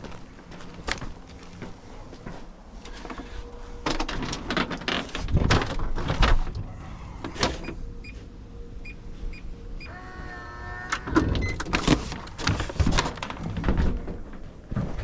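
Irregular clicks, knocks and rattles of hand tools and parts being handled, with a short squeak about ten seconds in.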